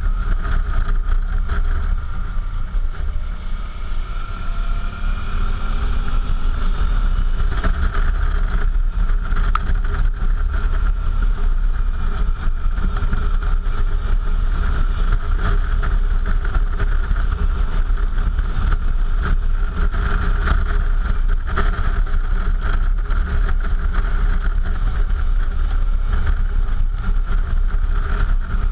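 Suzuki V-Strom motorcycle riding at a steady speed: an even engine drone under heavy wind rumble on the microphone.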